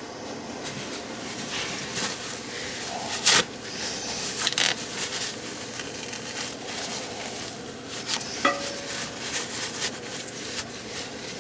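Hand-work noise on a toilet's floor bolts and plastic bolt-cap pieces: scattered clicks, taps and scrapes of plastic and metal against porcelain. There is one sharp click about three seconds in, and a knock with a short ring about eight and a half seconds in.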